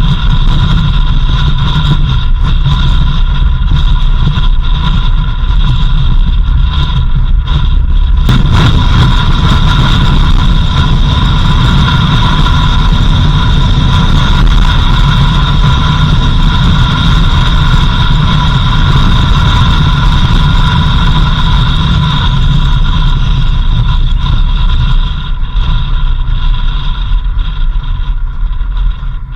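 Motor vehicle driving along, a steady low engine and road rumble with a few steady high whining tones over it. The sound eases slightly near the end.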